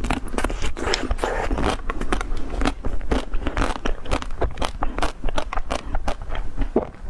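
Close-miked eating: biting and chewing crunchy food, with dense, irregular crackling crunches.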